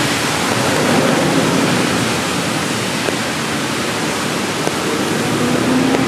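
Steady, even hiss of rain falling on a city street.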